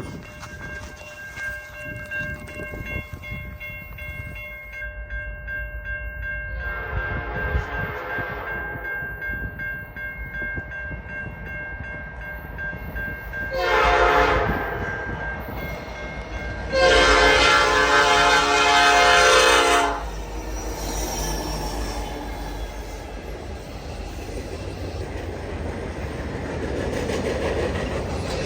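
A freight diesel locomotive's Nathan Airchime P5 five-chime horn sounds three blasts as the train approaches: two shorter ones, then a longer and louder third. The locomotive's low rumble grows louder near the end as the train draws close.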